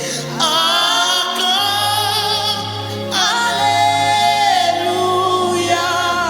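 Gospel worship singing: a voice holds long, sliding notes over music, with a steady low accompaniment note coming in about one and a half seconds in.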